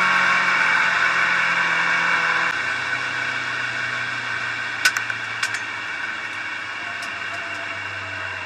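Race car engine heard from the car's own hood camera, with its pitch dropping a step about two and a half seconds in, then running lower and growing steadily quieter as the car slows. A few sharp clicks come about five seconds in.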